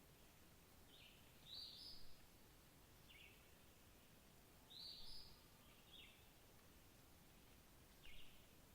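Faint calls of wild birds: about six short, high chirps spaced a second or two apart, two of them a little longer, over a quiet background hiss.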